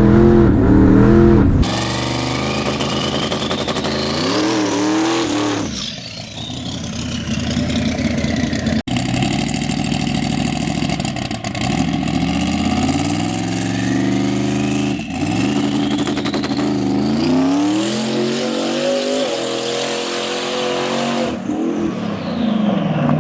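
Twin-turbo big-block V8 drag car under hard acceleration on a drag pass, its engine note climbing in pitch and dropping back several times, with a few abrupt cuts in the sound.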